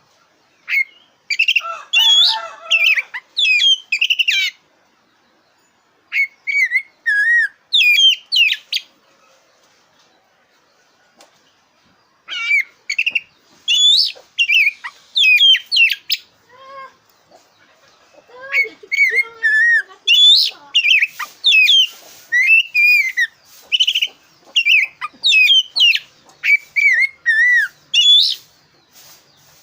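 Black-breasted Oriental magpie-robin (kacer dada hitam) singing loud phrases of sharp, rising and falling whistles and trills. The singing pauses twice for a few seconds, then runs on more densely through the second half.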